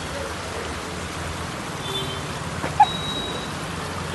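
Steady rain falling, with a low steady hum underneath. A single short sharp tap about two-thirds of the way through.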